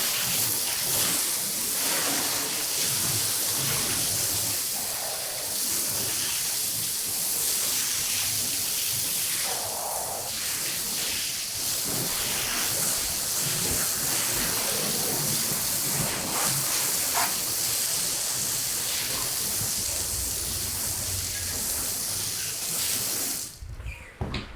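Steady hissing water spray, as from a pressure-washer wand rinsing a carpet; it cuts off about a second before the end.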